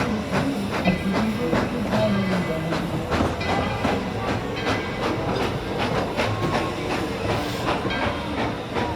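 Narrow-gauge tourist train running, its cars clattering and clicking over the track.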